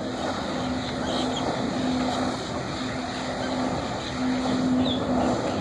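Jet ski engine running steadily: a continuous drone with a hum that fades in and out.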